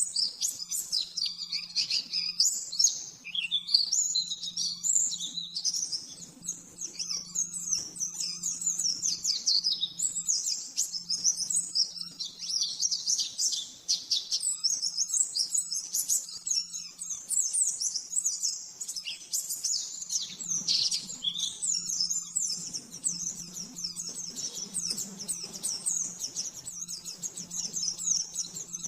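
Pleci (white-eye) singing in a fast, unbroken run of high twittering notes, the rapid 'nembak' song. A faint steady low hum lies underneath.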